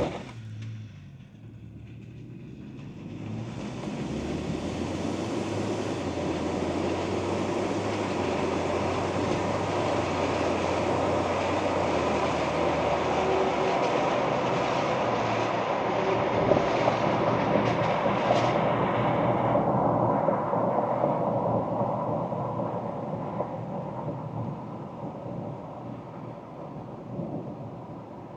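Ford Ranger Wildtrak pickup on the move: engine and tyre-on-road noise swell into a steady rumble a few seconds in. The higher hiss drops away about twenty seconds in, and the sound fades over the last few seconds.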